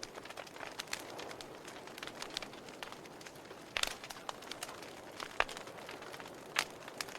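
Fire burning in a fireplace: a steady hiss with scattered sharp crackles and pops, the loudest pops about four, five and a half and six and a half seconds in.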